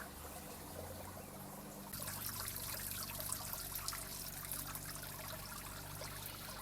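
Rainwater being poured out of a tipped wheelbarrow into a drain, trickling and splashing. The pour gets louder and fuller about two seconds in.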